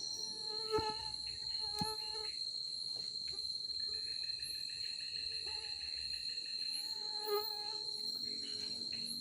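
Night forest insects: a steady high-pitched cricket-like drone, with a few short, louder calls from another animal about a second in, near two seconds and past seven seconds.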